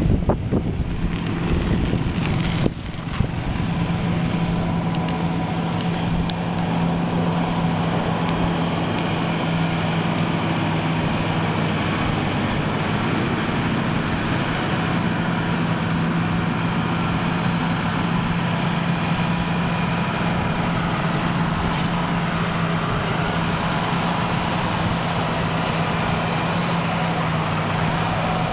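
Caterpillar 120H motor grader's diesel engine running steadily at constant speed, with a strong low hum. A few knocks and rougher noise in the first three seconds.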